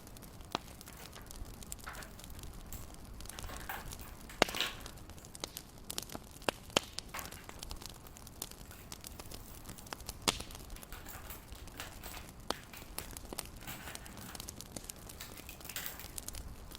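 Wood fire crackling: irregular sharp pops and snaps over a faint steady hiss, with a louder pop about four and a half seconds in.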